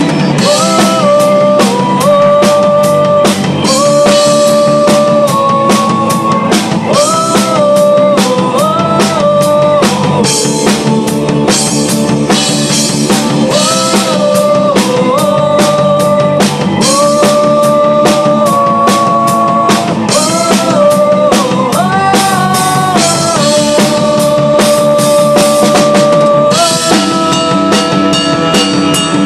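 Instrumental rock music: a full drum kit beating steadily under a melody line that moves in held, stepping notes, with no singing.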